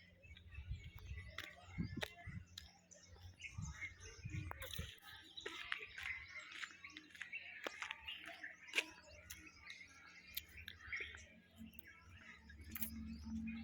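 Faint bird chirping: many short, high calls overlapping, with scattered clicks.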